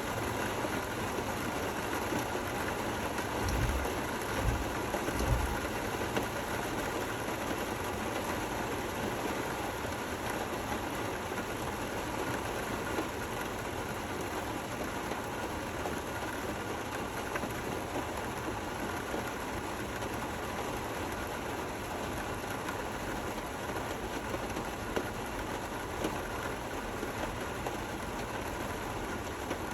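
Steady rain falling, an even hiss with no let-up. A few low thumps come about four to five seconds in.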